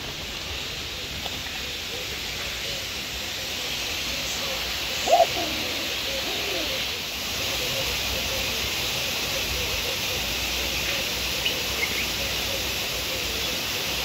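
Birds calling: one short loud call about five seconds in, then soft hooting calls repeated steadily through the rest, over a steady high hiss.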